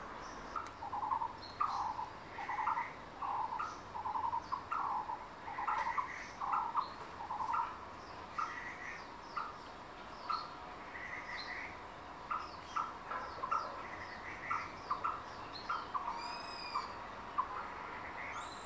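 Forest birds calling: one bird repeats a low call note over and over, about one to two notes a second, with higher chirps from other birds between. The low notes turn shorter and sparser about halfway through.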